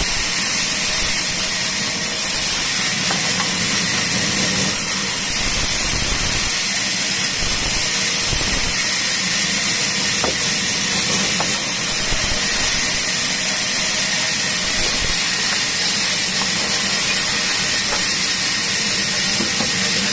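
Power saw running steadily through wood, a loud even hiss over a low hum, with a few faint ticks.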